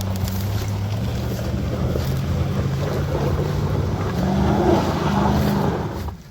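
GMC Z71 pickup's engine running under load while driving off-road, with a steady rush of noise over it. The engine note rises about four seconds in, holds, then falls away just before the end.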